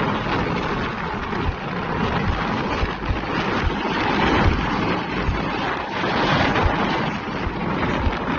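Steady road traffic noise with wind buffeting the microphone in low gusts and thumps.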